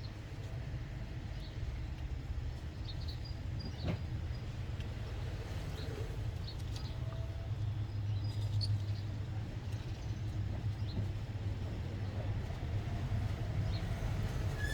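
Steady low rumble with faint, scattered small clicks and ticks over it; the rumble grows a little louder about halfway through.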